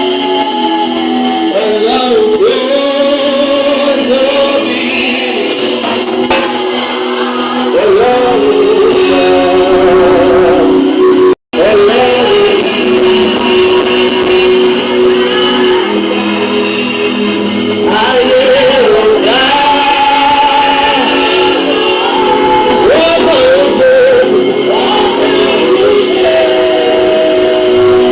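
Worship song sung with live band accompaniment, voices holding long wavering notes over steady instruments and echoing as in a large hall. The sound cuts out completely for a split second about eleven seconds in.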